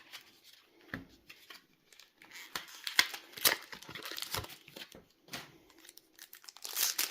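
Foil wrapper of a Pokémon booster pack crinkling and tearing as it is opened, in irregular rustling bursts that grow denser and louder near the end.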